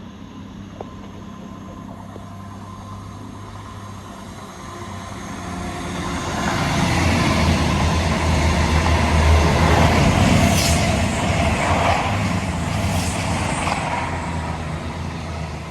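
CrossCountry diesel passenger train running slowly past, its engine hum and wheel noise building, loudest about halfway through, then fading as it moves away.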